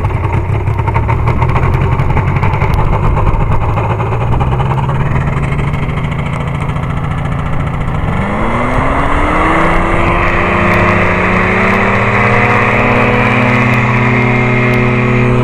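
Aerochute powered-parachute engine running steadily at low throttle. About eight seconds in, its pitch rises smoothly as it is throttled up, and it holds at higher revs.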